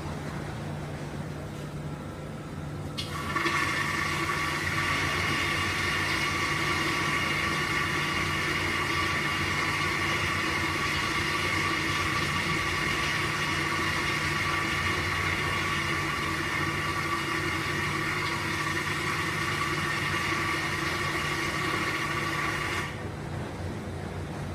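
Water roaring into the detergent dispenser on top of a Dexter 18 kg stainless-steel front-load coin-laundry washer, flushing the detergent in automatically. The rush starts suddenly about three seconds in and cuts off near the end, over the machine's steady low hum.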